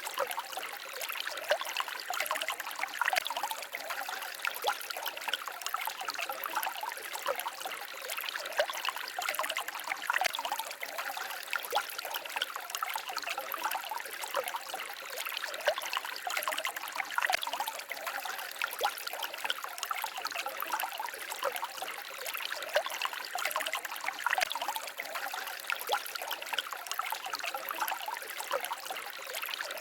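Small forest stream babbling and trickling over stones, a steady splashing with many small quick gurgles and no deep rumble.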